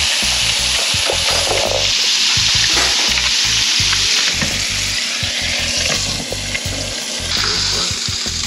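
Hogfish fillet sizzling steadily as it fries in hot oil in a pan.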